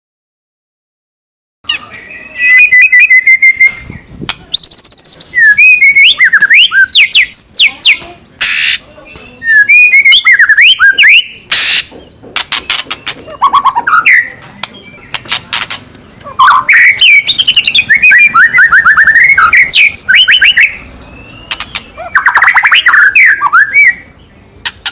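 White-rumped shama giving loud kretekan calls: bursts of harsh rattling chatter mixed with fast whistled, swooping phrases, starting after a second and a half of silence. This agitated chatter is the call used to provoke rival shamas into a fighting mood.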